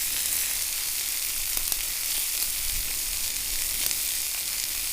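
Meat sizzling on a hot wood-fired grill: a steady hiss with a few faint crackles.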